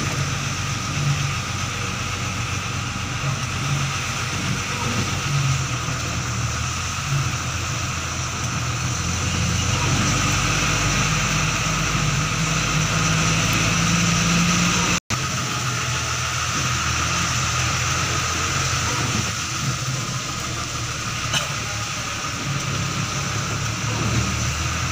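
Car engine running at low speed as the vehicle creeps forward in slow queueing traffic: a steady low hum under an even hiss. The sound drops out for an instant about halfway through.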